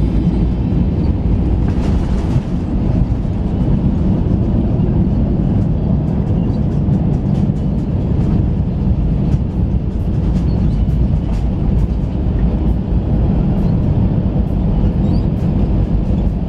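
Airbus A319 cabin noise: a loud, steady low rumble, with light rattling ticks through the middle and later part.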